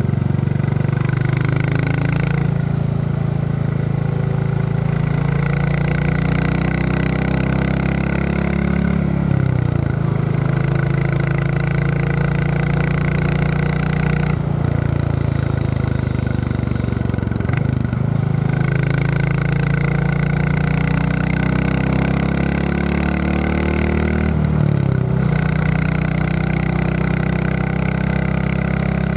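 Royal Enfield Classic 350's single-cylinder engine thumping steadily under way. Its pitch briefly drops and climbs again about four times.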